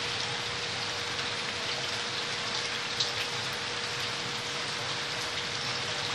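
Steady rushing hiss with a faint steady hum underneath and a single sharp click about three seconds in.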